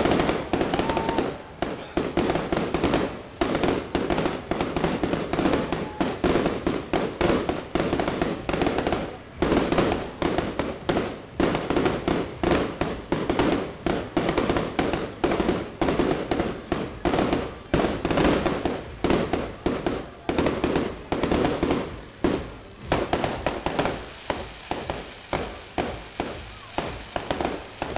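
Fireworks display: a rapid, unbroken run of shell bursts and bangs, several a second, for the whole stretch.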